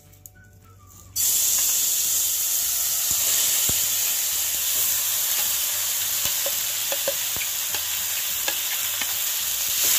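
Grated beetroot frying in hot ghee in a pan: a steady sizzle that starts suddenly about a second in, with light taps and scrapes of a perforated steel spatula stirring it.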